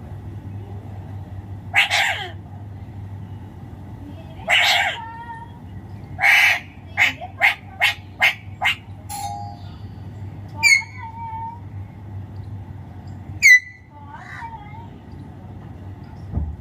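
Alexandrine parakeet calling. It gives harsh squawks about two, five and six seconds in, then a quick run of about six short calls, then two sharp whistles that sweep downward in pitch, one near the middle and one near the end.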